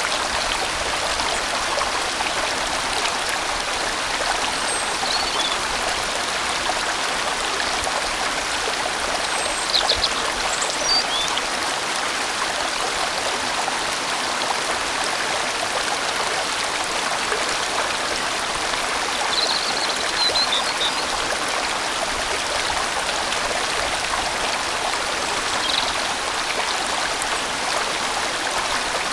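Water of a large, winding mountain-valley stream flowing steadily, an even rushing with no pauses.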